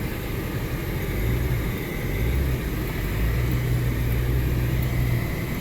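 Four-wheel-drive truck's engine running, a steady low drone that swells slightly in the second half.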